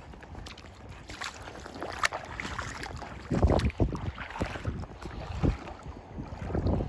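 Wind buffeting the microphone over water sloshing and splashing, with several louder surges of splashing and rumble after the middle.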